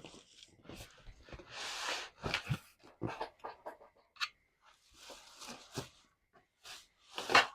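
Cardboard being cut, torn and shifted as a box is broken down: an irregular run of rustles, scrapes and rips, one longer tearing hiss about one and a half seconds in and a louder rip near the end.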